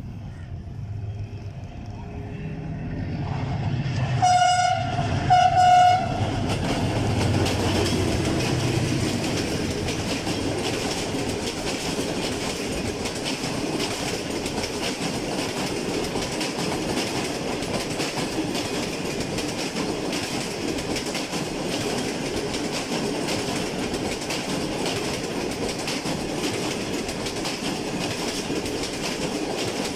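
Adtranz AGE-30 diesel locomotive drawing near with a rising engine rumble, then sounding its horn in two short blasts about four seconds in. Its passenger coaches follow, rolling past with a steady rumble and rhythmic clatter of wheels over rail joints.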